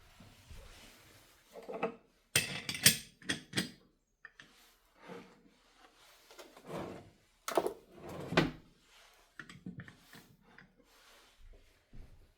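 Household objects being handled and set down: a string of knocks, clicks and clatters, with the loudest clusters about two to three seconds in and around eight seconds in.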